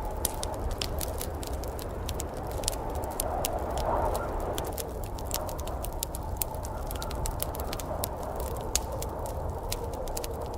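Wood fire crackling in a fireplace, with frequent irregular sharp pops and snaps over a steady low rushing noise that swells slightly about four seconds in.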